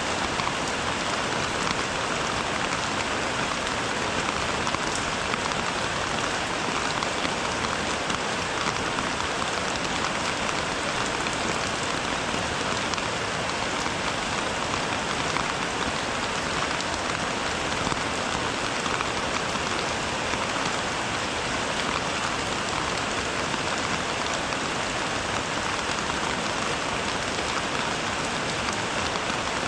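Steady rainfall: an even, unbroken hiss of falling rain with no thunder.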